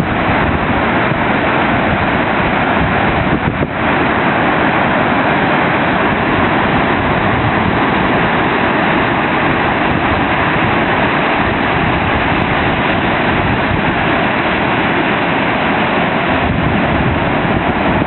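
Wind rumbling on the microphone over the steady rush of surf from a heavy post-typhoon swell.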